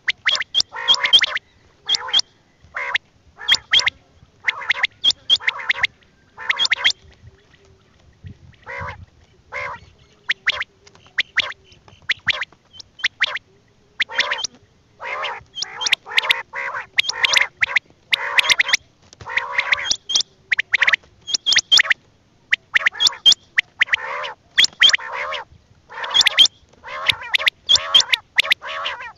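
Quail (bateer) calling over and over, short sharp calls in quick clusters of a few at a time with brief pauses between clusters.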